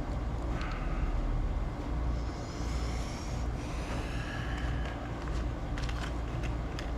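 Steady low background hum with a few light clicks and taps of small carburetor parts being handled on a workbench.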